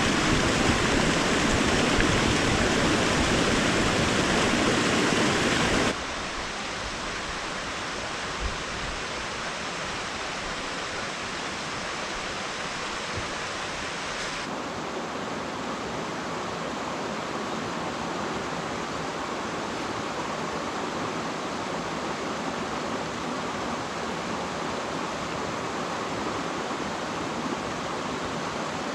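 Steady rushing of flowing water. It drops suddenly to a softer, thinner rush about six seconds in, and changes tone again about halfway through.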